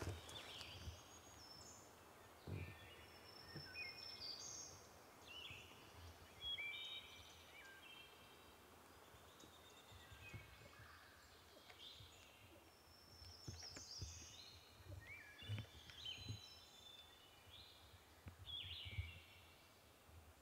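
Faint songbirds singing in woodland: many short whistled notes and phrases, with a few soft low thumps now and then.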